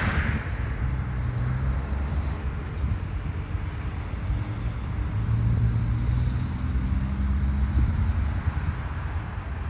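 Heavy truck's diesel engine running by at low revs, a deep rumble whose pitch shifts a little as it goes.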